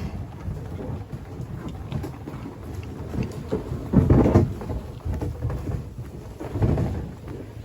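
Kayak hulls being dragged over the ground: an uneven low rumble with scraping, loudest about four seconds in and again near the end.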